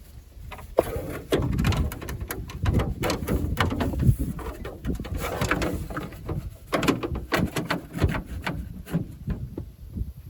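Clicks, knocks and clatter of parts being handled and fitted as a car wiper motor assembly is put back together, with some low cooing sounds among them.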